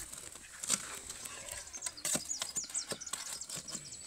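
A bird gives a quick run of short, falling high chirps about two seconds in, over scattered scrapes and knocks and a faint steady high whine.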